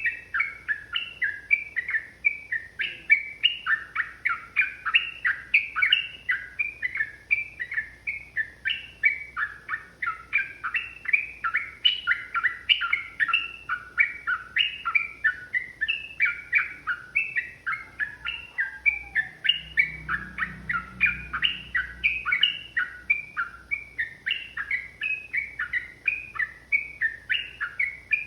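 Yellow-vented bulbul (trucukan) singing a long, rapid, unbroken run of short chattering notes, several a second, the continuous 'ropel' song used as a masteran to provoke other bulbuls into singing.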